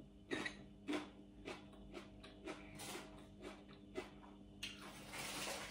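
Chewing a mouthful of raw green chili pepper: soft crunches about twice a second. A steady hiss comes in near the end.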